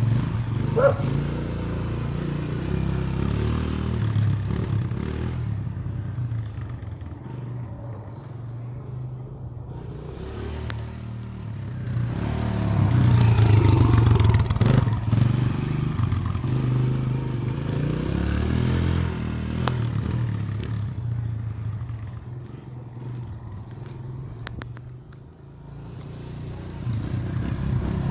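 Kawasaki 140 dirt bike's single-cylinder engine running, growing louder and fading away again as the bike rides around, then louder again near the end.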